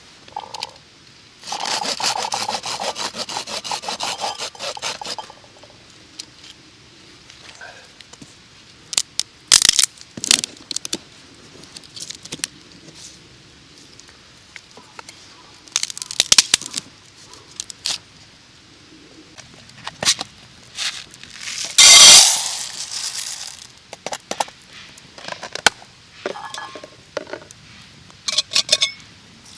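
Wood and camp gear being handled: a few seconds of rapid rasping near the start, then scattered knocks, scrapes and sharp cracks, with one louder noisy burst about two-thirds of the way through.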